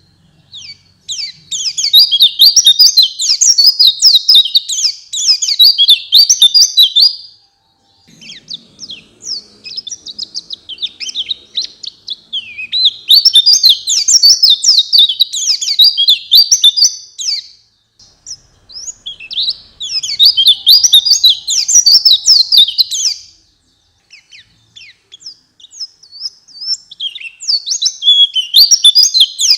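White-eye (pleci) song: loud runs of rapid, high twittering chirps in phrases of a few seconds each, with short pauses between them.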